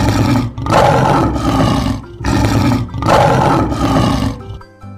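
A lion roaring several times in long, rough roars with short breaks between them.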